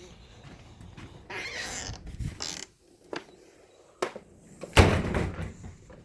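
A door being handled: a rustling scrape, a couple of sharp clicks, then a heavy thump near the end.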